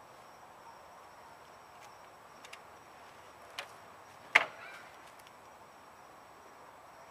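A few short, sharp knocks, the loudest about four and a half seconds in, over a faint steady background with a thin high tone.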